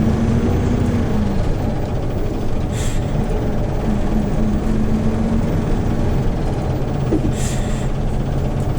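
Hyundai New Super Aero City CNG city bus engine running while the bus drives, heard from inside the bus, its pitch shifting as it works. Two brief air hisses come about 3 seconds and 7.5 seconds in.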